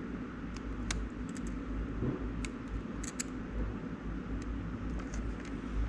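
A few small, sharp clicks and taps of metal probes being placed on a power supply board's capacitors to discharge them, over a steady low hum.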